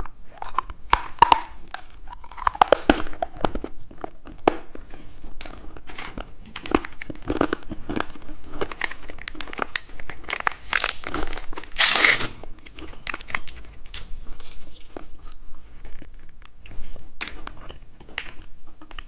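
Plastic candy wrapper crinkling and tearing open, with many small crackles and a longer rip about eleven to twelve seconds in.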